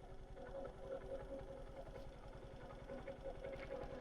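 Faint, steady low engine rumble, like a vehicle idling.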